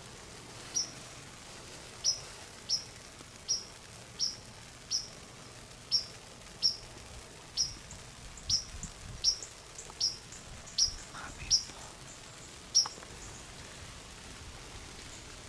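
A small bird's sharp chip call: a single high, down-slurred note repeated steadily about fifteen times, roughly one to two a second. It stops about 13 seconds in, with a faint steady hiss of the surroundings beneath.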